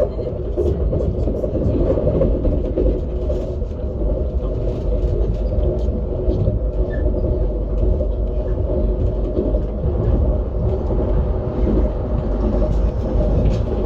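Steady rumble of a Lastochka (Siemens Desiro RUS) electric multiple-unit train running on the rails, heard from inside the carriage, with faint scattered clicks.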